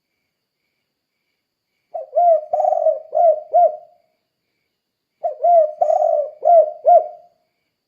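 Spotted dove (tekukur) cooing its 'kuk 2' style song: two phrases of several arched coos, each about two seconds long, starting about two seconds in and again about five seconds in.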